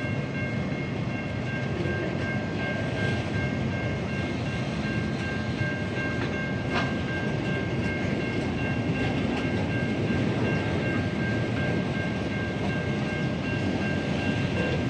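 SCT Logistics freight train's wagons rolling past in a steady, even rumble, with a thin, high, steady ringing tone over it.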